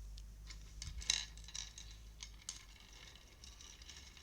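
Scattered light clicks and taps of small objects being handled, the loudest about a second in.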